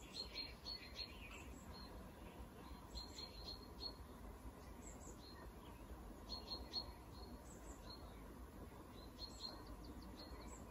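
Faint bird chirps: short, high calls in little clusters every few seconds, over a faint low background hiss.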